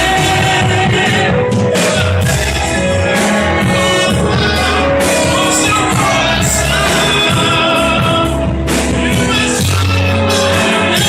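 Gospel band music with singing over a steady drum beat and bass.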